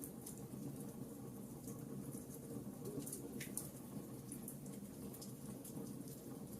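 Wood fire burning in a fireplace: a steady low rush of flames with frequent small crackles and pops, one sharper pop about three and a half seconds in.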